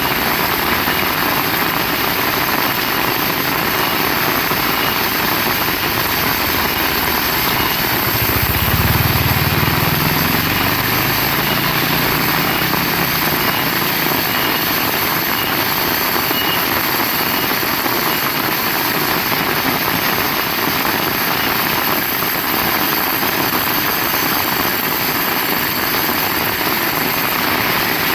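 Heavy rain falling in a steady, dense hiss. A low rumble swells briefly about eight seconds in and fades by eleven.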